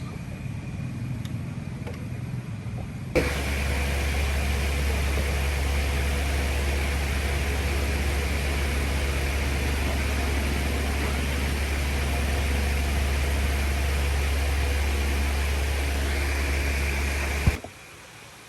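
A machine running steadily at one unchanging speed with a strong low hum. It starts suddenly about three seconds in and cuts off abruptly shortly before the end.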